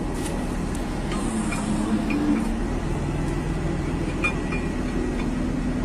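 A heavy vehicle running with a steady low rumble and a few faint clicks and knocks.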